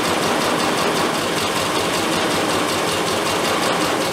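Triumph Spitfire four-cylinder engine idling steadily on twin SU carburettors as the mixture is being set; it is still running too weak.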